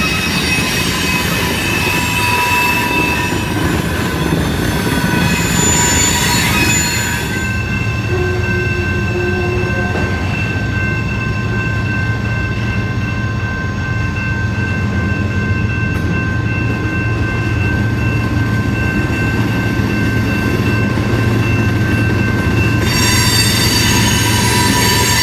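Freight train cars rolling past with a continuous rumble and steady high-pitched wheel squeal, the squeal easing off about a third of the way in and growing louder again near the end.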